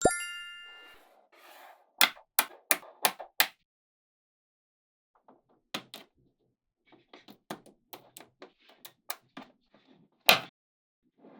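Small magnetic balls clicking and snapping together. There is a sharp snap with a ringing tone that fades over about a second at the start, a quick run of five loud snaps about two seconds in, then a string of lighter clicks and one loud snap near the end.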